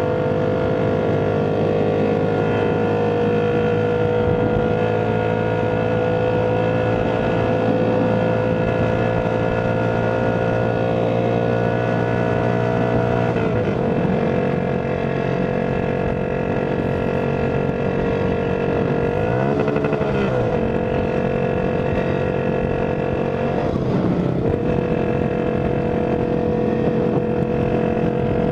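Tuned Shineray Phoenix 50cc moped engine running steadily under way, deafening, its note drifting slowly in pitch and dipping briefly a few times as the throttle changes.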